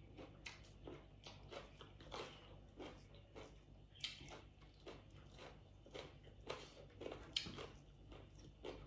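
Faint eating sounds: a person chewing with their mouth, with soft irregular clicks about once or twice a second.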